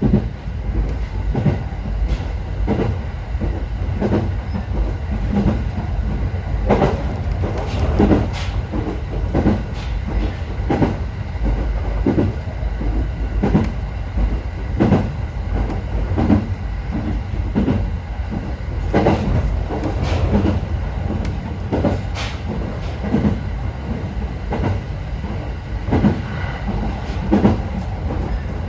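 Train running at speed, heard from inside the carriage: a steady low rumble with the wheels clacking over rail joints at regular intervals, a little over a second apart and often in pairs.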